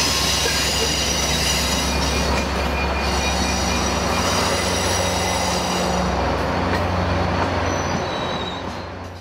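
Passenger train passing over a railroad diamond crossing. The Amtrak California F59PHI diesel locomotive's engine runs steady and low under the rolling of the bi-level cars' wheels, with high thin wheel squeal and a few light clicks as the wheels cross the diamond. The sound eases slightly near the end.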